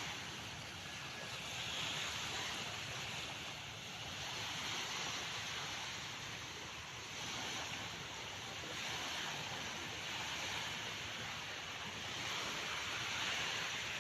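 Calm sea: small waves making a steady hiss that swells and falls gently every two to three seconds.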